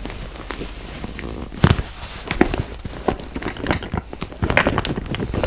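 Close-miked tapping and scratching on a makeup bag: an irregular run of crisp taps and crinkly clicks, with one louder knock about a second and a half in.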